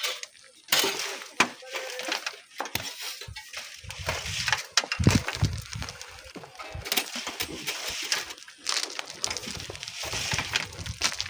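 Irregular scraping, knocks and clinks of sand and stones being dug and moved by hand.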